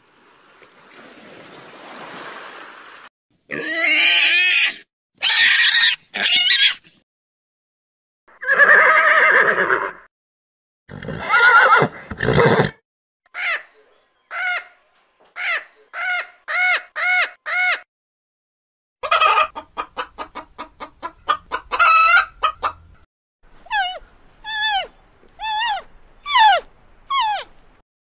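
A string of different animal calls, one after another. A soft hiss comes first, then loud harsh calls. Next is a row of short calls that speeds up, then a rapid pulsing trill, and near the end several calls that slide down in pitch.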